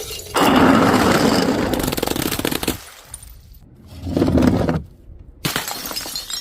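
Glass breaking and crunching: a long run of dense crackling crunches lasting about two and a half seconds, a shorter burst a little later, and a sudden crash near the end.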